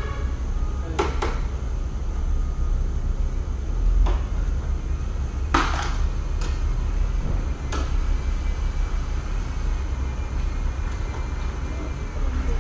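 Workshop knocks and clanks, about five short hits spread over several seconds, over a steady low rumble.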